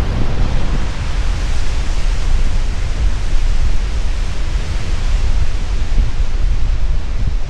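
Steady, loud rushing of the Jemma River and its waterfall tumbling through the gorge, with wind buffeting the microphone as a gusty low rumble.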